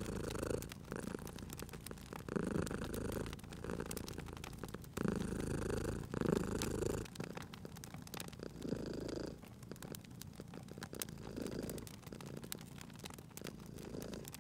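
Domestic cat purring, the purr swelling with each breath every second or two and fading somewhat in the latter half. Fire crackling throughout as scattered sharp ticks.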